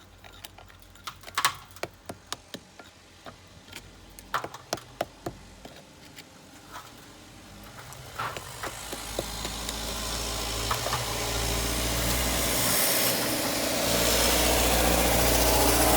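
Irregular sharp knocks and clicks for the first half. Then an engine-like motor noise with a low hum grows steadily louder through the second half.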